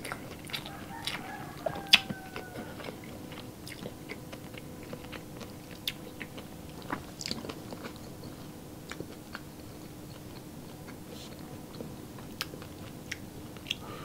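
A person chewing food close to the microphone: wet mouth sounds with scattered sharp clicks and smacks, busiest in the first few seconds and thinning out later, over a faint steady hum.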